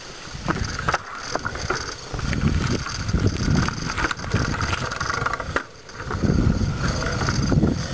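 Bicycle being ridden, with wind rumbling on the microphone and scattered clicks from the bike. The rumble drops away for a moment about two-thirds of the way in.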